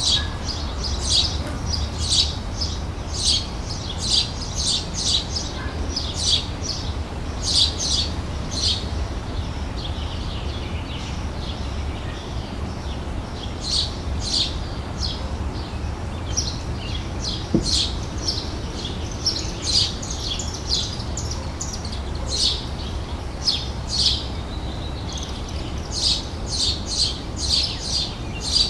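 Small birds chirping in quick, short notes that come in irregular clusters with brief lulls, over a steady low rumble.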